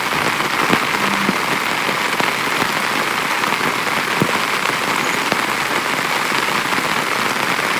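Heavy rain falling steadily on a small tent, with a few sharper single drop strikes standing out.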